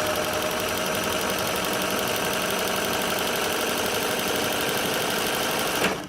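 Singer 503A sewing machine running steadily at high speed, its freshly oiled mechanism turning freely. It stops abruptly near the end.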